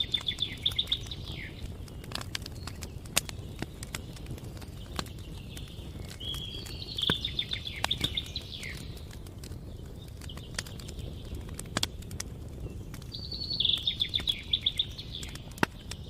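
A bird sings a short, trilled song three times, about six seconds apart, over a campfire crackling with scattered sharp pops and a low steady rumble.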